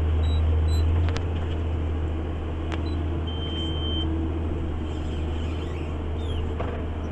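JCB Fastrac 8250 tractor engine running steadily under ploughing load, a low drone heard from inside the cab that eases slightly about a second in. A short high beep sounds about three seconds in.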